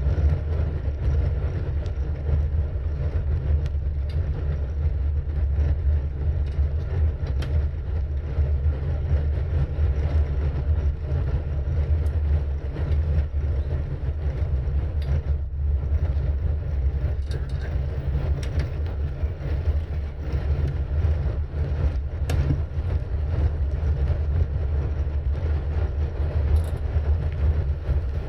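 Steady low rumble of wind buffeting the microphone of a camera riding along on a moving bicycle, with scattered faint clicks and knocks from the ride.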